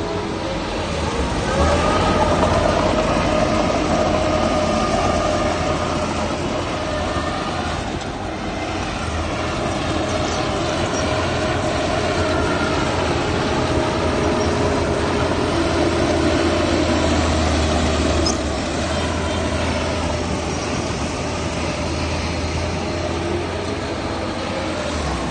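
Heavy diesel earthmoving machinery running steadily under load, with a whine above the engine note that rises about two seconds in.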